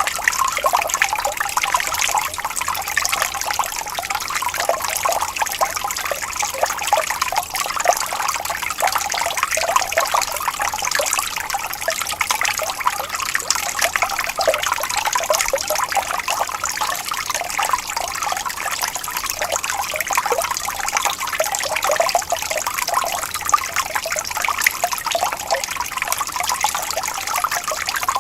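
Gently flowing water trickling and burbling, a steady stream of small splashes with no pauses.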